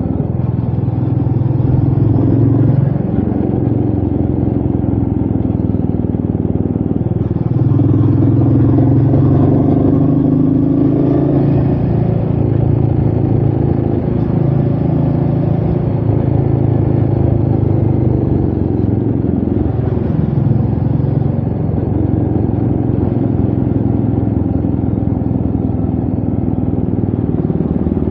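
Royal Enfield Meteor 350's single-cylinder engine running under way, its pitch dipping and rising again several times as the rider works the throttle and gears, with wind rush over the rider.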